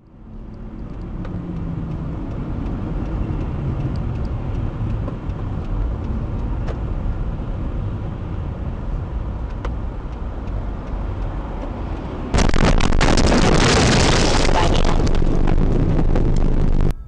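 Car driving, with a steady low rumble of engine and road noise. About twelve seconds in, a sudden loud harsh noise takes over for about four seconds and then cuts off abruptly.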